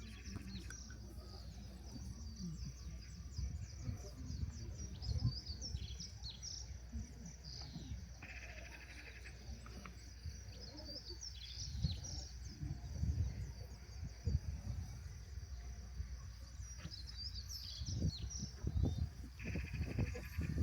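Small birds chirping and twittering over an uneven low rumble. A buzzy trill comes in twice, about eight seconds in and again near the end.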